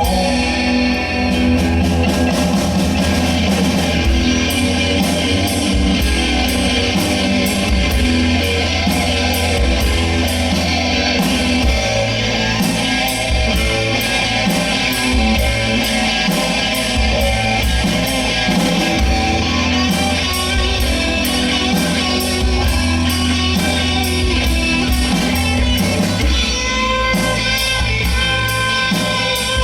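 Live rock band playing: guitar over a steady drum beat with regular cymbal strokes.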